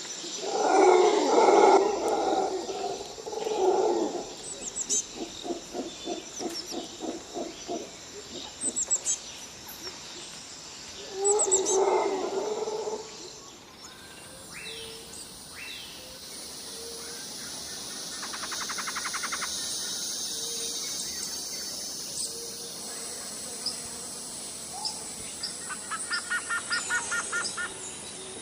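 Birds calling. In the first half come loud, harsh calls with a fast pulsed run of notes. After about thirteen seconds there is a steady high hiss, with short trills and quick series of chirps over it.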